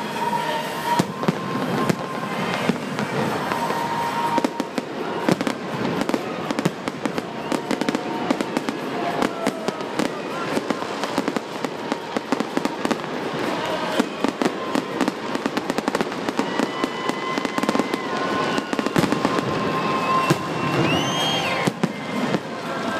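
Fireworks display going off nonstop: dense, rapid bangs and crackling with no break, some with rising whistles.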